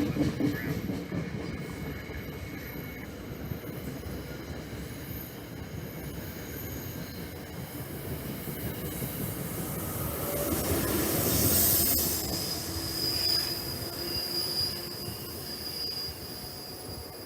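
A train passing, its rumble building to its loudest about eleven seconds in, with a steady high squeal from the wheels on the rails.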